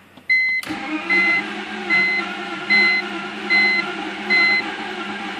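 BMW E46's starter cranking the engine steadily from about half a second in, without it catching: a crank/no-start, which turned out to be cylinder wash-down from excess cold-start fuel leaving little to no compression. A warning chime beeps about once every 0.8 seconds over the cranking and stops near the end.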